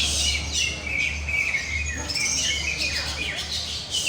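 Several green leafbirds singing at once, a dense, unbroken tangle of overlapping high chirps and warbled phrases, over a steady low hum.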